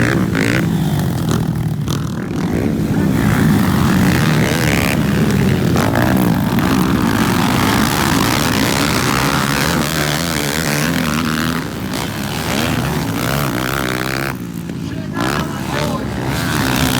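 Several motocross bikes racing, their engines revving up and down in pitch as they accelerate and shift.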